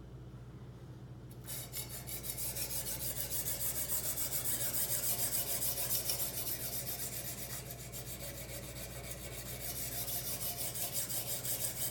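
Sharpening stone, the 150-grit stone of a guided knife sharpener, rubbing rapidly back and forth along a steel kitchen-knife edge. The strokes start about a second and a half in.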